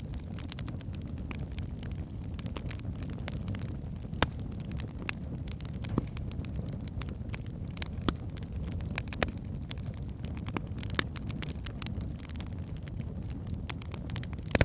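Wood fire burning in a fireplace: a steady low roar of flames with frequent sharp crackles and pops from the logs, a few louder pops standing out.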